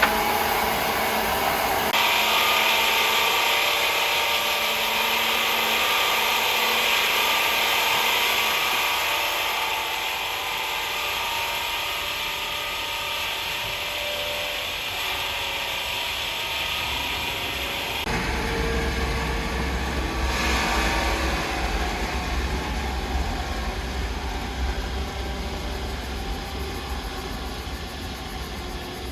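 Sawmill machinery running steadily, with a high hiss for most of the first part that gives way about two-thirds of the way in to a deep, low rumble.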